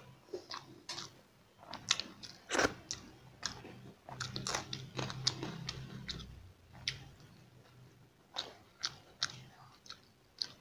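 Chewing a mouthful of rice and curry by hand-fed bites, with many short, sharp, wet mouth clicks and smacks. Fingers mix rice in a steel plate between mouthfuls.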